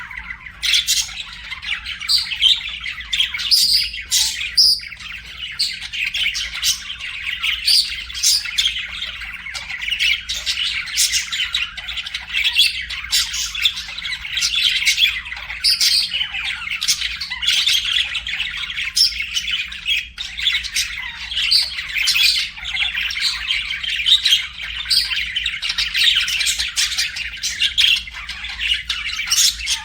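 Several budgerigars singing and chirping without pause: a dense, continuous chatter with frequent short, sharp squawks.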